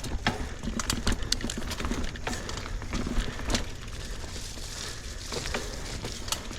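Mountain bike rattling and clicking as it rolls over wet roots and mud, with a steady rumble of tyre and wind noise and a hiss that grows in the second half.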